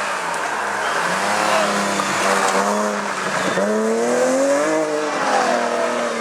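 Rally car engine at full effort on a stage: held at steady revs, then dropping sharply about halfway through and climbing again in pitch, with some tyre noise.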